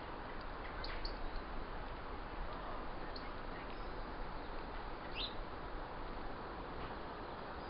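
A few short, high bird chirps from garden birds, spaced seconds apart, over a steady background hiss.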